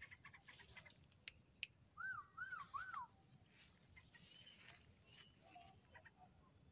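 A bird calling: three quick arched whistled notes about two seconds in, among faint scattered chirps and clicks.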